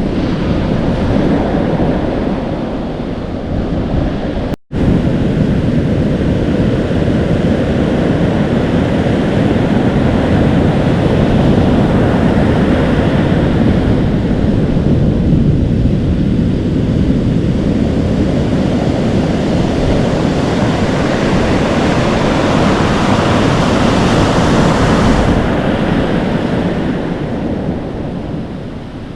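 Atlantic Ocean surf breaking and foaming with a continuous rushing wash, with wind buffeting the microphone. The sound cuts out for a split second about four and a half seconds in, and the bright foamy hiss fades a few seconds before the end.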